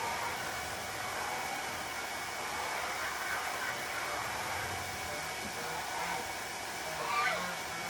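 Steady rushing of water running from a hose into a water pan. A short animal call comes near the end.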